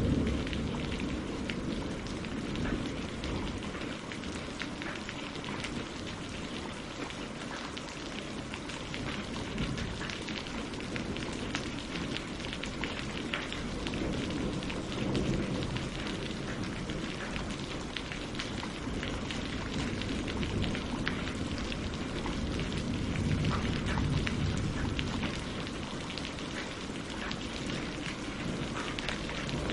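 Steady rain falling on leaves and lake water: a continuous hiss full of small pattering drops, with a low rumble swelling up twice, about halfway through and again near the end.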